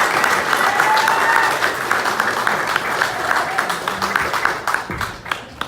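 Audience applauding, with a few voices mixed in; the clapping dies down about five seconds in.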